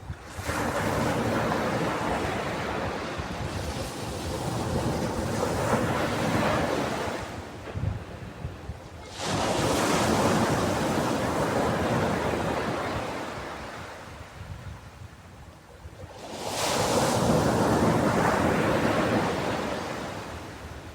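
Ocean waves breaking on a beach: three slow surges of surf, each building, washing in and fading away over several seconds before the next one comes in.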